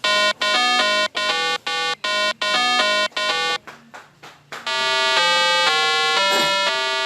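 Electronic synthesizer jingle: a run of short, separated staccato notes, then after a brief pause a smooth run of held notes stepping up and down in pitch.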